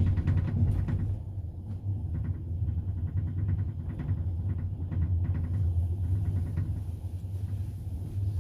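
Passenger train running: a steady low rumble from inside the carriage with repeated groups of clacks from the wheels passing over rail joints, about one group a second.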